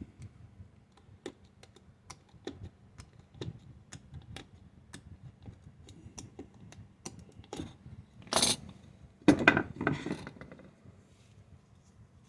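A knife scoring a small model part against a block of wood. It makes a string of light clicks and ticks. There is one louder scrape about eight seconds in and a few more just after.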